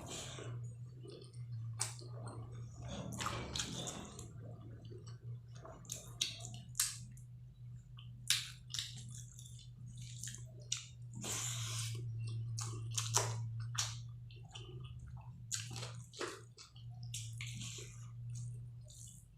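Close-up eating sounds: wet, squishy chewing and lip smacks of dal and rice in irregular bursts, over a steady low hum.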